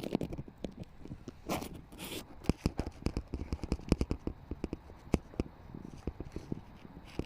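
Irregular close clicks, knocks and scrapes, with a brief rasp about one and a half seconds in: handling noise of something being moved or rubbed right at the microphone.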